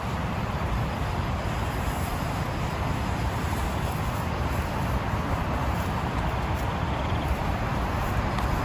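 Heavy rain falling steadily, a dense, even rush of sound.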